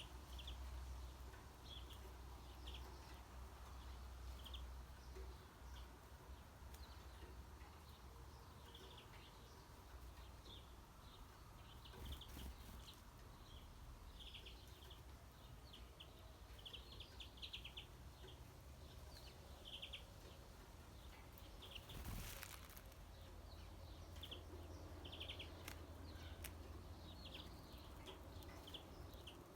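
Faint birdsong: many short, high chirps repeated irregularly over a low background rumble. A brief noisy rush about 22 seconds in.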